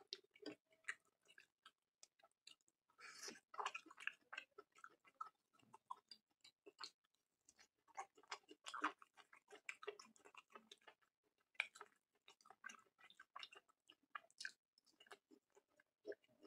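Close-miked chewing and wet mouth sounds of a person eating curry with rice: an irregular run of soft smacks and clicks, busier in short spells.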